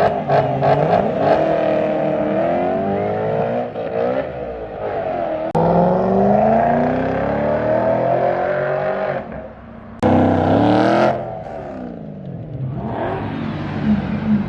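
Car engines revving hard, their pitch climbing and falling again and again, with a rapid stuttering crackle in the first second or so. The sound jumps abruptly twice, about five and ten seconds in.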